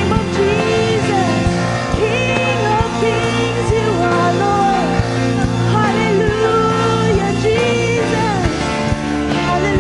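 Live worship band playing a song with a lead vocalist singing over sustained keys or guitar, a steady bass and a regular drum beat.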